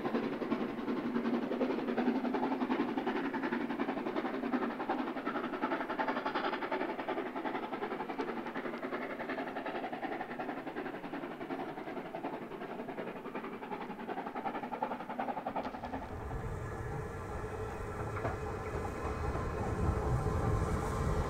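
HSB narrow-gauge steam locomotive working hard uphill, its exhaust beats coming in a rapid, even run. About sixteen seconds in, the sound changes to a deeper rumble.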